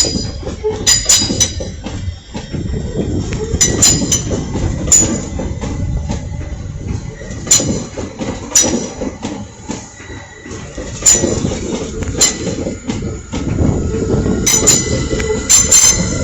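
A train passing on the rails: a heavy steady rumble with repeated sharp metallic clicks and brief high squeals from the wheels.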